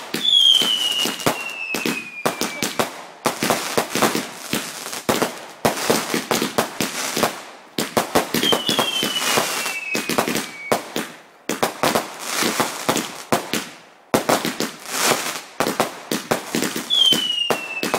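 Garden fireworks crackling densely and without a break. Three times, about every eight seconds, a firework whistle sounds for a couple of seconds, falling in pitch.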